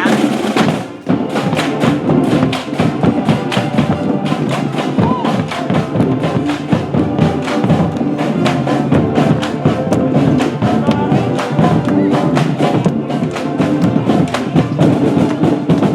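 Marching band playing: brass instruments holding sustained notes over a drumline beating a steady, quick rhythm.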